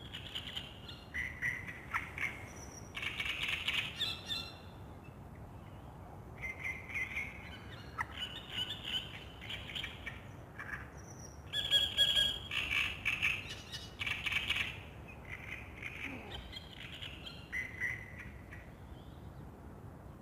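Songbirds singing at dawn, a run of short repeated song phrases one after another, loudest about halfway through, over a steady low background hush.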